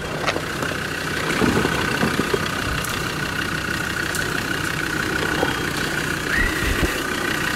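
Land Rover Discovery 2 engine running as the truck creeps along a rutted mud track, with a steady high whine over it that steps up in pitch near the end. The onlookers think this engine has something wrong with it and is gutless, down on power.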